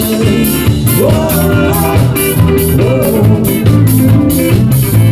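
Live rock band playing an upbeat song: steady drums, bass and electric guitar, with a melody line that slides up in pitch twice.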